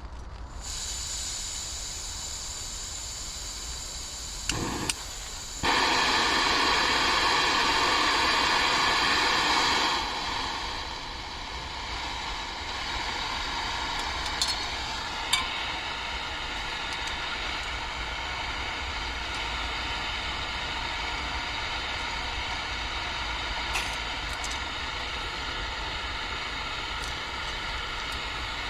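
Portable gas camping stove burning with a steady hiss. A few clicks come just before it flares up much louder about five seconds in, and it drops back to a lower, steady hiss about ten seconds in, as if the flame were turned down.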